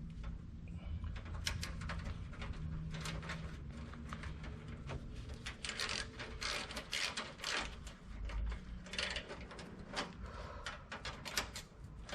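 Irregular metallic clicks and knocks of hand tools working on a car's center exhaust and its clamps, over a low steady hum.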